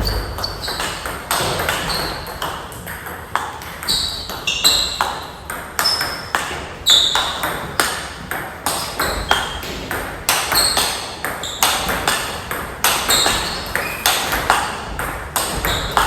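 Table tennis ball being hit back and forth in a fast rally: a quick, irregular run of sharp pings and clicks as the ball strikes the rackets and the table, about two or three a second.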